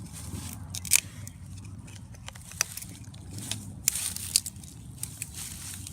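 Moluccan cockatoo chewing plant material with its beak: irregular crunches and sharp snaps, a few louder cracks among them.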